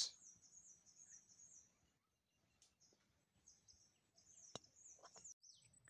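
Near silence with faint high bird chirps: quick runs of short falling notes, pausing midway, and a single faint click just before the end.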